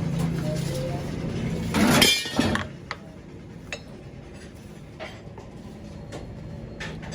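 Steady low machine hum with sharp metallic clinks and knocks, and a louder noisy clatter about two seconds in.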